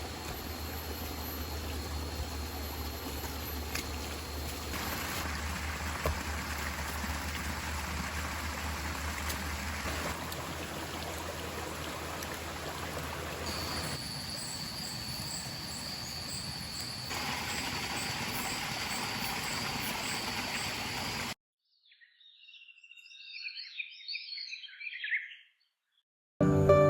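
Forest ambience: the steady rush of a running stream, with a thin, steady, high insect whine and bird calls. The ambience changes abruptly a few times and stops short about two-thirds of the way through. A brief effect sound follows in the silence, and music starts at the very end.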